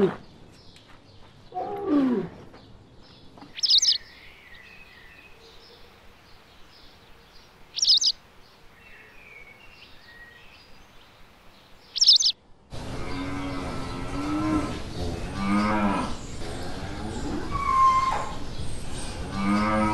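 Farm animal calls and short high bird chirps, with an abrupt change about two-thirds through to a denser chorus of overlapping animal calls.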